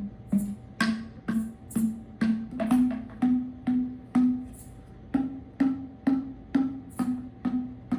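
Hand percussion struck in a steady beat, about two strikes a second, each stroke a sharp click followed by a short, low pitched ring.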